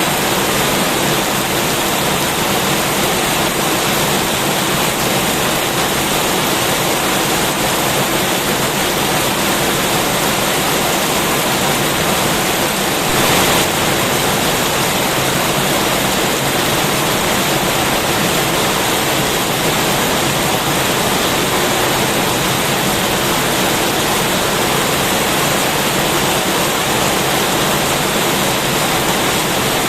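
Heavy rain falling steadily, a dense even hiss that swells briefly about halfway through.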